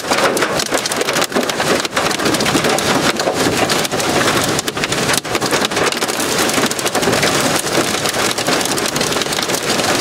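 Heavy, steady rain driving against a vehicle, heard from inside the cab, in the rain-wrapped core of a tornadic supercell.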